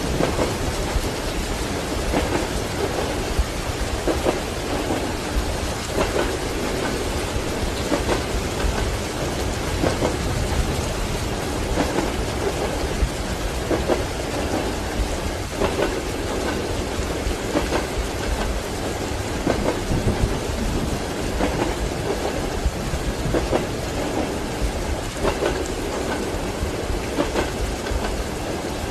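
Steady heavy rain with thunder, mixed with train wheels clicking over the rail joints in a regular beat roughly every two seconds.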